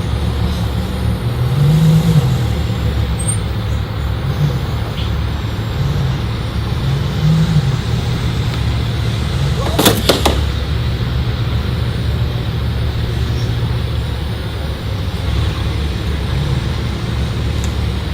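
Motor vehicle driving noise: a steady low engine and road rumble, with a short hiss about ten seconds in.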